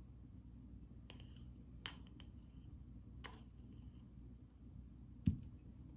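A few light clicks and taps, then one dull thump about five seconds in, over a low steady hum.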